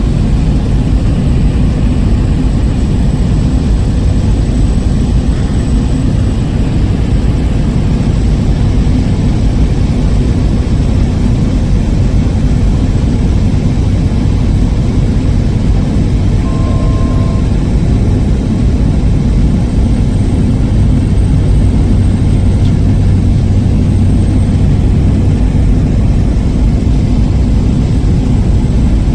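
Cessna Caravan's single turboprop engine and propeller running steadily, a loud even drone with a strong low hum. A short electronic beep sounds a little past halfway.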